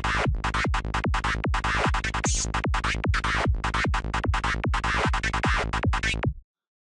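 NI Massive software synthesizer playing a dark, FM-like psytrance lead: a fast, evenly repeating pattern of short notes, each with a quick downward pitch sweep. The pattern stops abruptly near the end.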